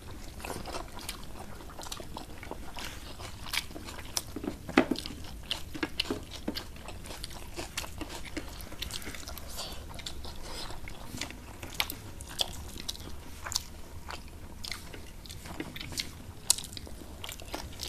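Close-miked eating sounds: chewing and wet mouth smacks of two people eating rice and curry by hand, with many scattered short, sharp clicks and a few louder ones.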